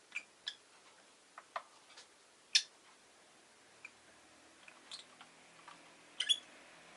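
Pet rosy-faced lovebird making scattered short, sharp ticks and chips, about eight of them, the loudest about halfway through and a quick double near the end.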